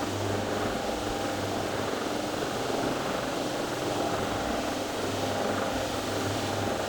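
Carpet-cleaning machine running steadily: an even motor noise with a low hum.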